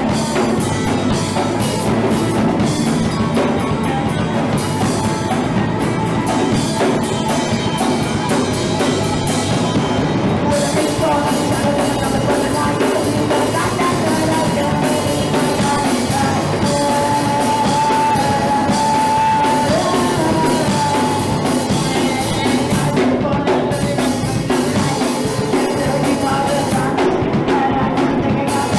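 Live punk rock band playing loudly: drum kit and amplified instruments throughout, with some singing.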